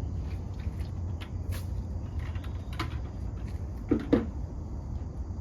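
Dog food bowls being handled while they are wiped out: scattered light clicks, then two sharp knocks close together about four seconds in. A steady low hum runs underneath.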